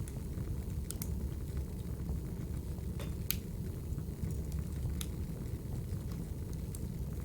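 Fire in a fireplace crackling: a steady low rumble of flames with sharp pops and snaps every second or two.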